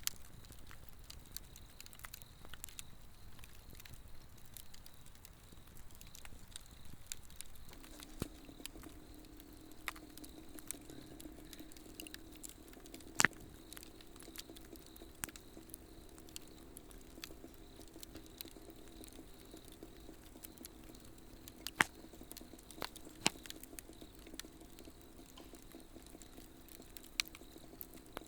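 Swedish torch log fire crackling, with scattered sharp pops, two of them much louder, over a steady high insect trill. A low steady hum comes in about eight seconds in and carries on.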